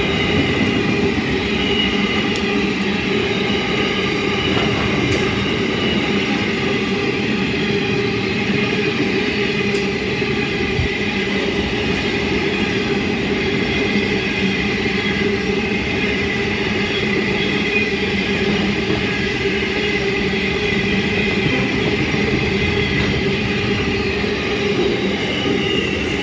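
Loaded freight wagons carrying steel coils and containers rolling past close by on steel wheels: a loud, steady noise of wheels on rail.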